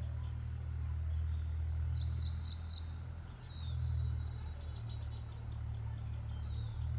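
Outdoor ambience with a steady low rumble. A small bird chirps a quick run of four short rising notes about two seconds in, then gives a single chirp a moment later.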